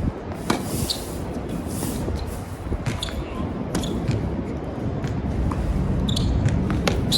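Tennis balls struck by rackets and bouncing, a few sharp knocks spread through, over a steady low rumble of strong wind buffeting the microphone.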